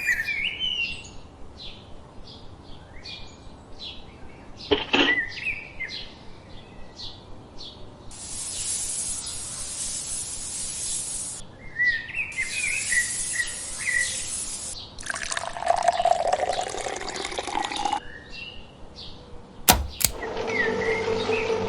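Birds chirping on and off, broken by several seconds-long rushing hisses like pouring or spraying water. Near the end come a couple of sharp clicks, then a steady mechanical hum.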